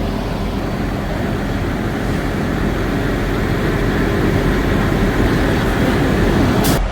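Heavy truck diesel engine running, a steady loud rumble with hiss, which changes abruptly near the end.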